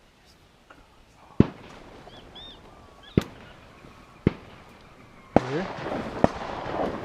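Shotgun shots going off across the marsh, about five of them spread over several seconds, some fainter and farther off than others.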